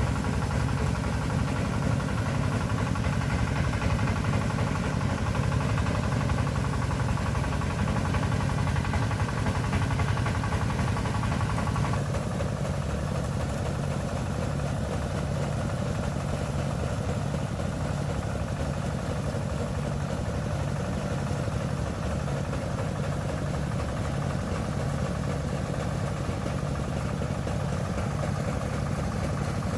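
A small engine running steadily, with a sudden change in its tone about twelve seconds in.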